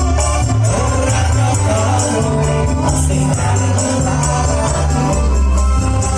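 Dangdut music from an orkes band with a steady beat: tambourine jingles on the rhythm over changing bass notes, with a sung melody line.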